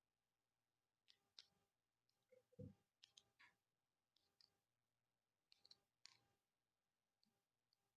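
Faint, scattered clicks and taps of small plastic and diecast model-kit parts being handled and snapped together, with a soft low thump about two and a half seconds in.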